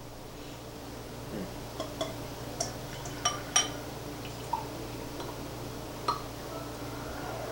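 Beer being poured into a glass, a soft steady pour broken by several light clinks of glass.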